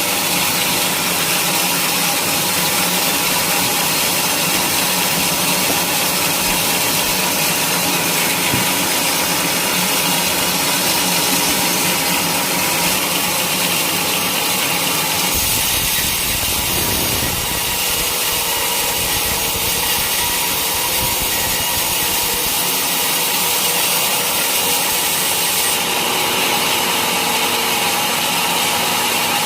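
Sawmill saw cutting through a teak log, a steady mechanical whine and cutting noise with a constant set of tones. A low rumble joins a little past halfway and drops away near the end.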